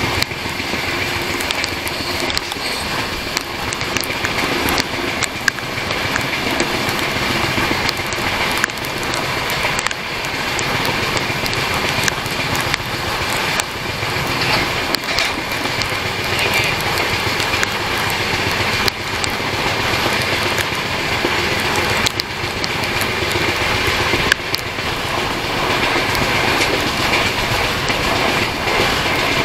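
Jharkhand Swarna Jayanti Express passenger coach running at speed, heard from its side: a steady rush of wheels on the rails and wind, with scattered clicks of the wheels over rail joints.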